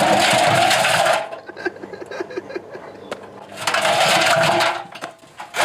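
Washing machine with worn drum bearings running with a brick inside. The spin makes a loud rushing noise with a steady whine that drops away about a second in to lighter rattling and knocking, then surges again for about a second. A sharp knock comes near the end.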